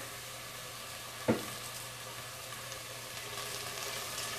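Lentils frying in hot oil in a stainless steel pot, a steady sizzle while a metal spoon stirs them, with one sharp metallic clink of the spoon against the pot about a second in. The lentils are being toasted in the onion oil before the water goes in.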